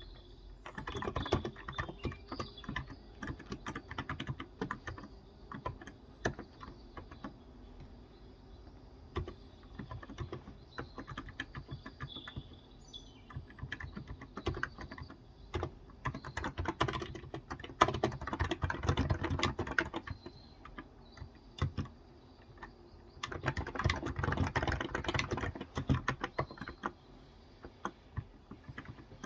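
Typing on a Cox Endeavor electro-capacitive (Topre-style) 35 g tenkeyless keyboard: runs of quick keystrokes in bursts of several seconds, broken by short pauses.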